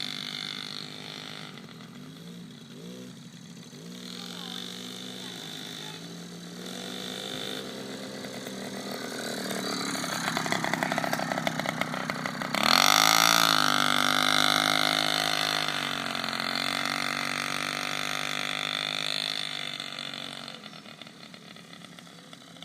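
Small motorbike engine running, its pitch rising and falling as it is ridden. It climbs to its loudest a little past halfway, then holds steadier and fades near the end.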